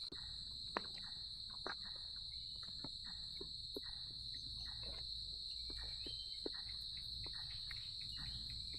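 A steady, high-pitched drone of insects in the forest, with scattered small clicks and knocks over it.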